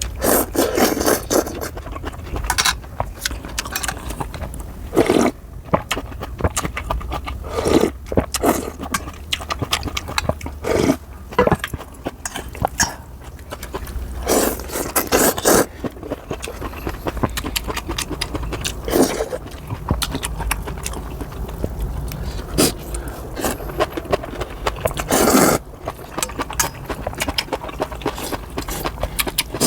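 Close-miked eating of janchi guksu noodle soup and kimchi: slurps and chewing come in short bursts every one to three seconds.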